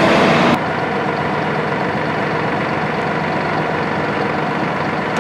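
Massey Ferguson 4609M tractor's three-cylinder turbo diesel engine running. About half a second in it drops suddenly to a quieter, steady idle.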